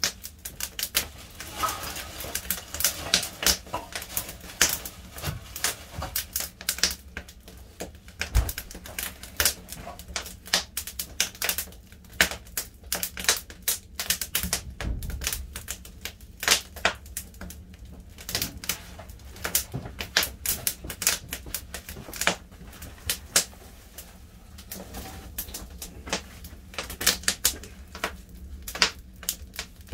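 Firewood burning in a wood fire, crackling with irregular sharp snaps and pops several times a second.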